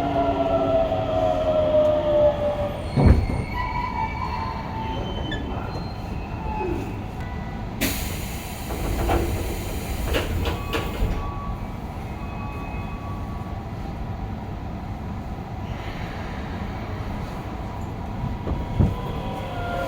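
Onboard a Hokuso 7300-series electric train: the GTO-VVVF traction inverter's whine, several tones together, falls in pitch and fades out in the first few seconds. After that there is steady rolling rumble, a sharp knock about three seconds in, and a burst of hiss around eight seconds in.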